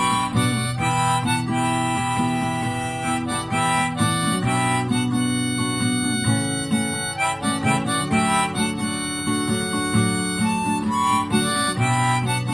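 Harmonica playing a melody over strummed acoustic guitar chords, an instrumental break in the song.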